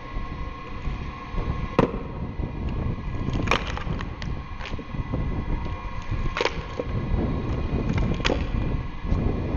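Electric drill (screw-cone) log splitter running with a steady motor hum, the wood cracking apart in four sharp snaps as logs split on the cone.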